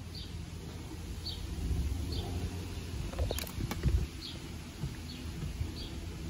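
A small bird chirping in the background, one short high call about every second, repeated steadily. Two sharp clicks come close together about three and a half seconds in.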